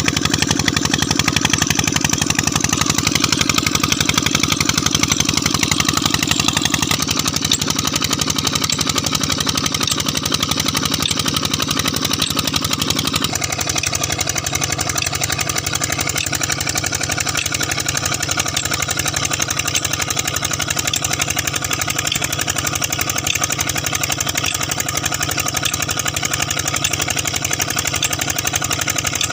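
Peter 20 HP diesel engine (model SD115) running steadily, with a rapid, even firing beat. Its tone shifts noticeably about seven seconds in and again about thirteen seconds in.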